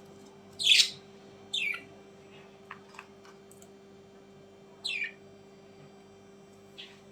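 Bird calls: three short, loud squawks, each falling in pitch, about a second in, just before two seconds in and about five seconds in, with a few faint clicks between them.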